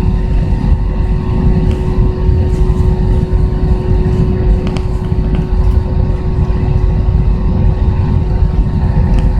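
Airbus A320 cabin noise: a loud, steady low rumble of the jet engines and airflow, with a constant hum running over it.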